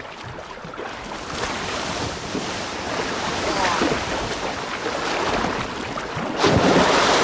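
Water splashing and churning as beluga whales thrash and roll against the riverbed in shallow water, shedding old skin, with a louder surge of splashing near the end.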